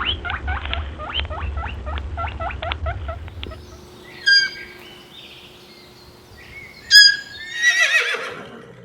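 Animal calls: a quick series of short, falling calls, about four a second, over a low rumble, then near the end a horse neighing with a falling, wavering whinny.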